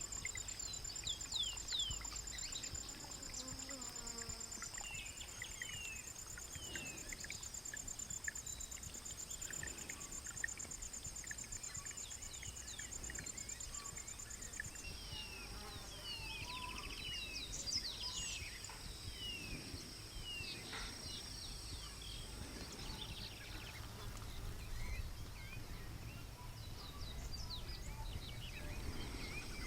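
Forest ambience: a steady, high-pitched insect drone, its pitch shifting about halfway through, with many short, quick downward-sliding bird chirps scattered over it.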